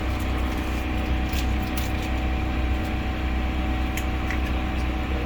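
Steady low machine hum with a faint steady tone, and a few faint short clicks.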